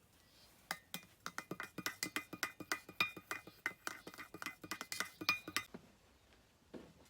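A rapid run of light clinks from small hard objects knocking together, with a faint ringing note, for about five seconds before stopping.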